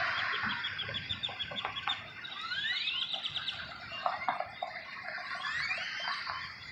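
Several small birds calling: a quick run of short, high, repeated notes, then a few rising slurred calls.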